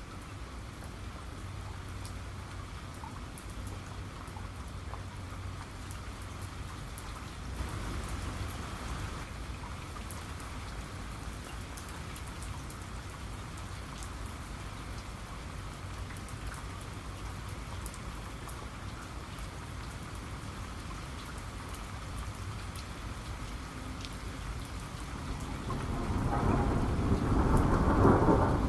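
Steady rain with scattered drops pattering on a surface, and a low rumble of thunder swelling up loudly in the last few seconds.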